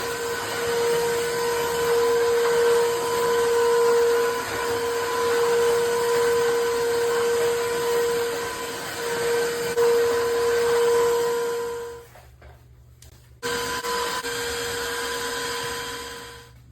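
Tineco iFLOOR 3 cordless wet-dry floor cleaner running with a steady whine and a rush of suction. It cuts out about twelve seconds in, starts again a second and a half later at a lower level, and stops near the end.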